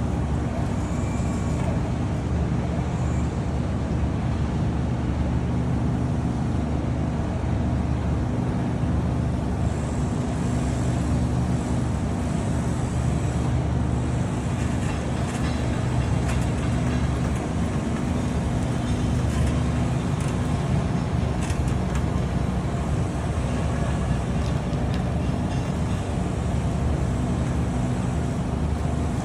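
Steady low machine hum at an even level, with a faint high whine coming and going.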